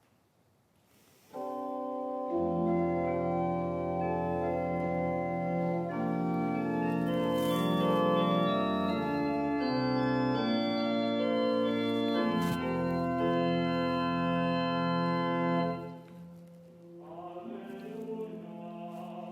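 Church organ playing slow, sustained chords. It starts about a second in and dies away near the end, where a voice begins singing.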